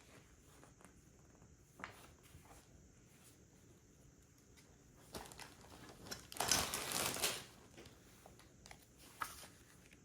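LEGO pieces being handled during a build: small plastic clicks and taps, with a burst of rustling and crackling lasting about a second, some six and a half seconds in.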